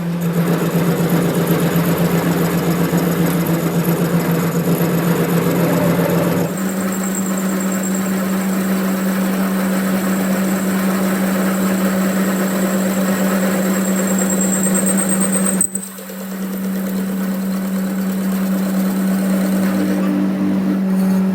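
A workshop machine running steadily, a constant hum under a noisy grinding sound. The sound changes abruptly about six seconds in and drops out briefly near sixteen seconds before carrying on.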